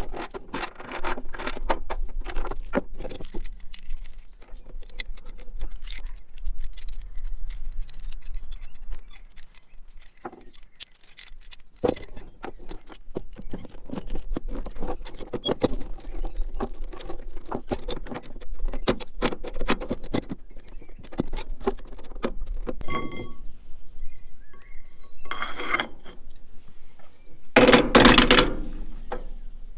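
Loose metal clinking and rattling: many quick clinks and knocks over a low steady hum, with a ringing metallic clang about 23 seconds in and louder clattering near the end.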